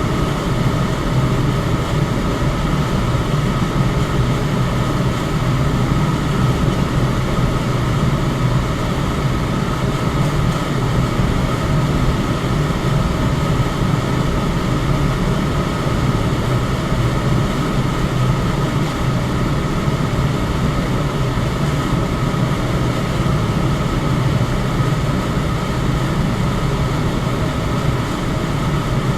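Electric fan running steadily: an even, unbroken whooshing whir with a faint steady hum.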